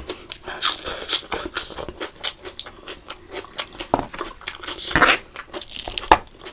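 Close-miked chewing and biting of spicy food, with many irregular wet mouth clicks and smacks and a few louder bites.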